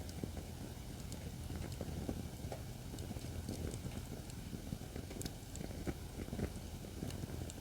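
Acacia firewood burning in a fire pit stand: a low, steady rush of flame with frequent small crackles and sharp pops scattered irregularly.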